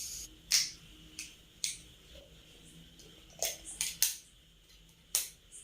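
About seven sharp clicks and cracks at irregular intervals, a cluster of three close together in the middle.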